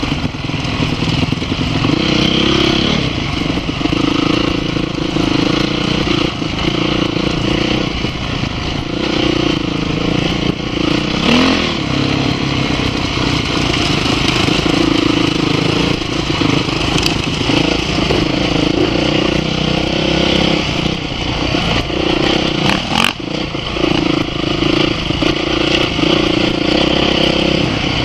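Dirt bike engine running under way, its note rising and falling with the throttle.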